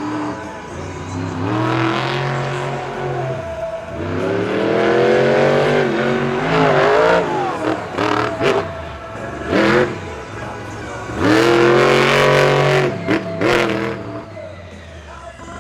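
Monster truck engine revving hard in repeated surges, each climbing in pitch and then dropping off, with quick throttle blips in between.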